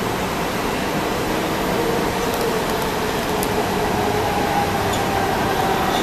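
MARTA rapid-transit train approaching the station: a steady rushing noise, with a whine that comes in about four seconds in and slowly falls in pitch.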